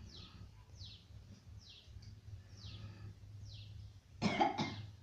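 A bird chirping over and over, each chirp a short high note that falls in pitch, about one every half second, over a steady low hum. Near the end come two loud, short sounds in quick succession.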